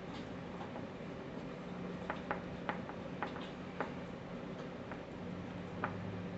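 Faint steady low hum with a handful of sharp, irregular light clicks, about six of them between two and six seconds in.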